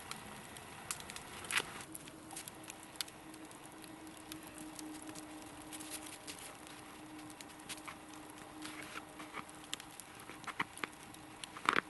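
Long log campfire crackling, with scattered pops and rustles and a louder run of crackles near the end. A faint steady tone runs under most of it.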